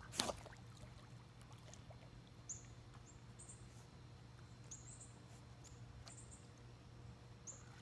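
Faint outdoor quiet: small birds chirping in short high groups of notes now and then, over a low steady hum, with a short click about a quarter second in.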